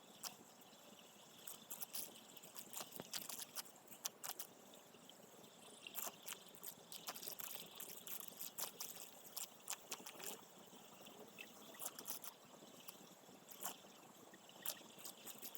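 Water trickling and splashing, with many irregular small clicks and crackles.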